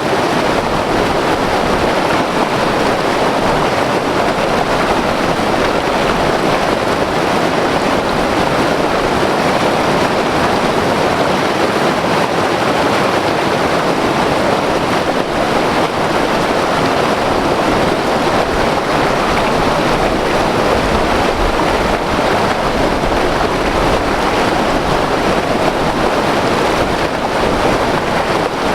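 White water river rushing over rocks: a loud, steady roar of turbulent water that holds even throughout.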